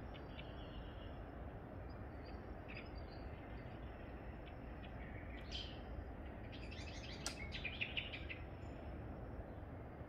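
Small birds chirping over a steady low background rumble: scattered short high calls, then a quick run of rapid chirps about seven to eight seconds in.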